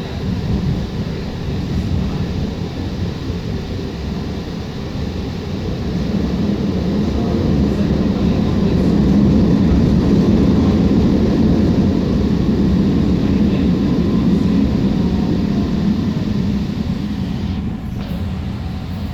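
Alstom Citadis Spirit light-rail train in motion: a steady low rumble of wheels on rails that swells about six seconds in and eases off again near the end.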